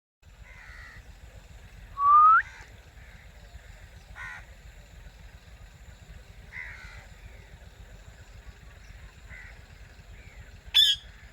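Ringneck parrots calling: one loud rising screech about two seconds in, a few quieter short calls after it, and a sharp call near the end.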